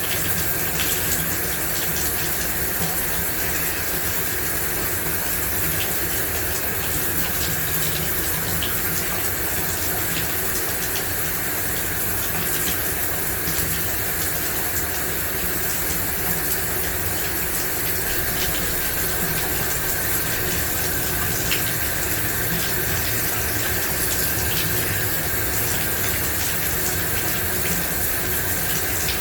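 Shower running steadily, water spraying and splashing in an even hiss with faint scattered droplet ticks.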